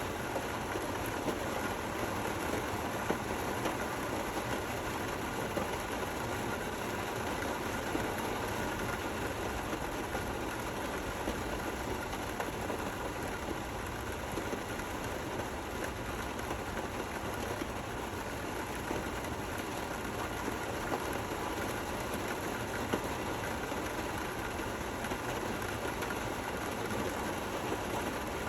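Steady rainfall, an even hiss with the odd slightly louder drop and no thunder.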